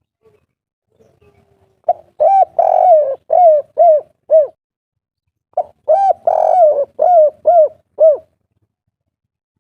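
Spotted dove (derkuku/tekukur) singing its 'kuk 3' song: two cooing phrases, each a run of five or six arched coos with one longer coo near the start, the second phrase beginning about three and a half seconds after the first.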